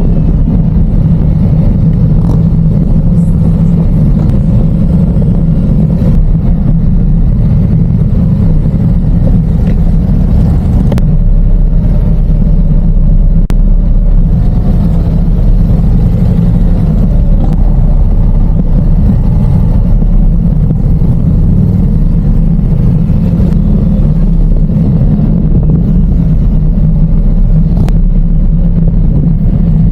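Motorcycle running at steady cruising speed: a loud, even, low engine and road rumble.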